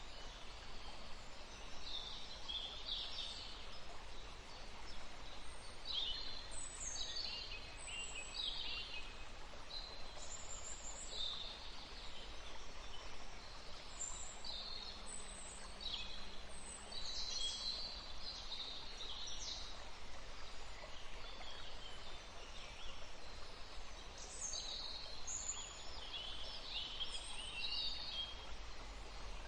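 Songbirds chirping and calling, many short high chirps and quick down-sweeping notes in irregular bursts, over a faint steady low background hum.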